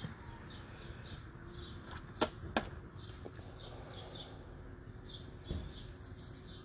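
Faint outdoor background with a small bird chirping over and over at a steady pace, and two sharp clicks about a third of a second apart a little over two seconds in.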